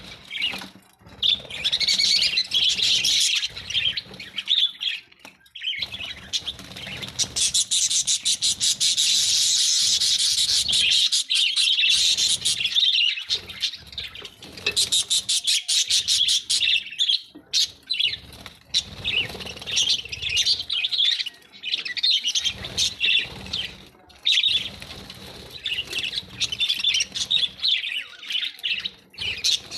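Australian parrots chirping and chattering, with a long run of rapid chirps in the middle and shorter bursts with brief pauses after it.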